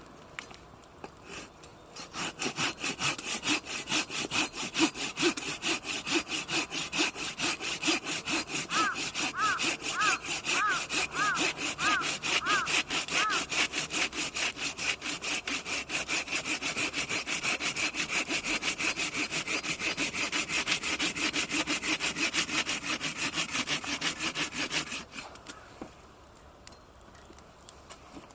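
Hand saw cutting through firewood with steady back-and-forth strokes, about two a second. It starts about two seconds in and stops a few seconds before the end.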